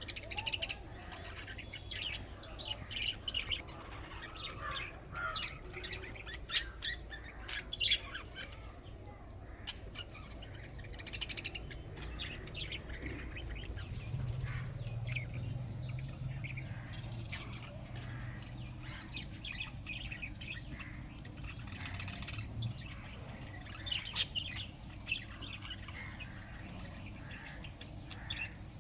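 A colony of budgerigars chirping and chattering in many short, irregular calls, with a few sharper, louder squawks standing out, the loudest about six seconds in. A low steady hum runs underneath.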